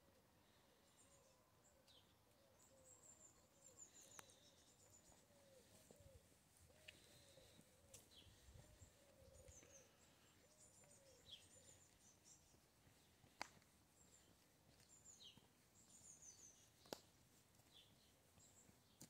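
Near silence outdoors, with faint small birds chirping and twittering throughout. Two sharp clicks stand out, one about two-thirds of the way in and one near the end.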